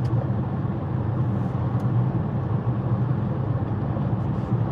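Steady low drone of a car on the move: engine and tyre noise, unchanging throughout.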